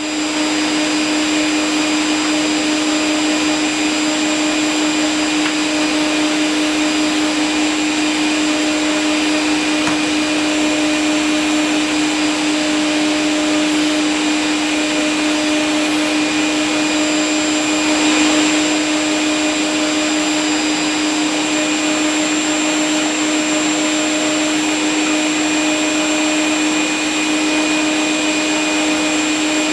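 Vacuum cleaner running steadily: an even rushing noise with a constant motor hum, swelling slightly about two-thirds of the way through.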